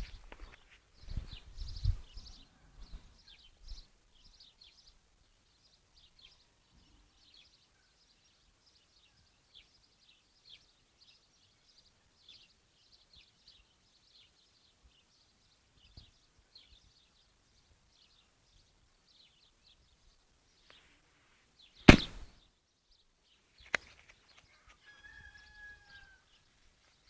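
A kitten gives one short mew, falling slightly, near the end. Before it come a sharp knock about two-thirds of the way in and a smaller one shortly after, over faint high chirping.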